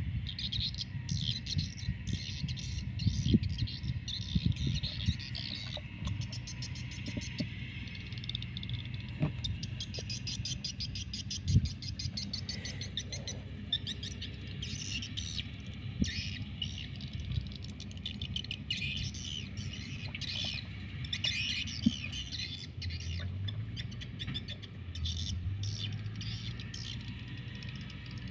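Several birds chirping and trilling, with a fast run of trills several seconds in, over a low rumble and a few sharp knocks. A steady low hum comes in near the end.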